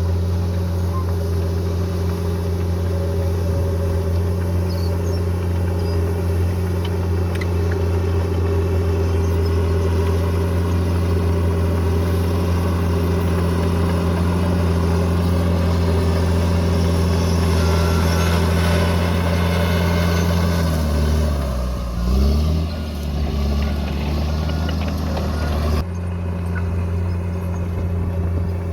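A bulldozer's diesel engine running steadily under work. About three-quarters of the way through, its note sags and then climbs back up, as it would when the engine is lugged by a load. The sound shifts abruptly near the end.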